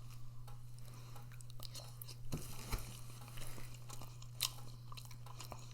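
A person chewing a mouthful of food close to the microphone, with small wet clicks and crackles, over a steady low hum.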